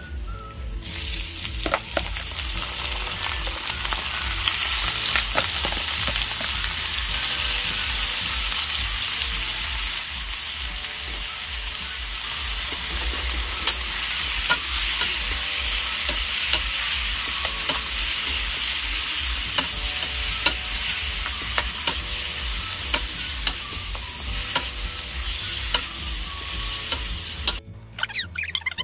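Raw chicken pieces sizzling in a hot oiled wok, frying steadily while a metal ladle stirs and scrapes them, with sharp clicks of the ladle against the pan. The sizzle starts about a second in and cuts off suddenly just before the end.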